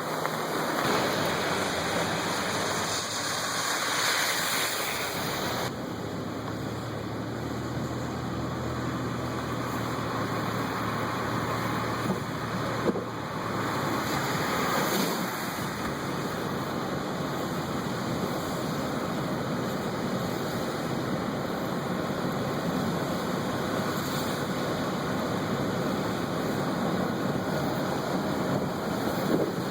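Flood-swollen river rushing steadily, a continuous hiss of fast-moving water.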